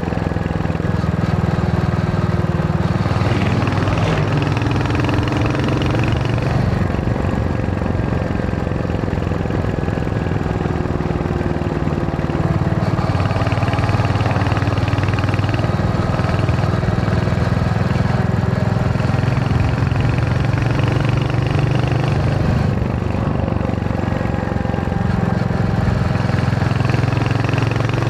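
Royal Enfield Hunter 350's single-cylinder engine running under way, its note shifting up and down in pitch several times as the bike rides.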